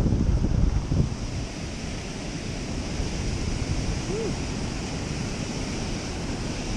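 Steady rush of water pouring through a dam spillway, with wind buffeting the microphone.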